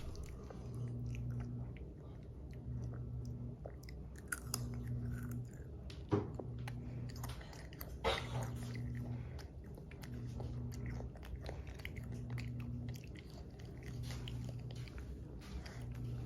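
Small wet mouth noises, irregular clicks of sucking, smacking and swallowing, from a baby feeding, over a low hum that pulses on and off about every second and a half.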